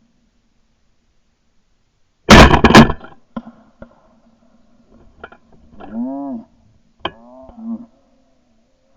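Shotgun firing at doves, very loud and clipped, about two seconds in with a second peak half a second later. Two short calls that rise and fall in pitch follow a few seconds after.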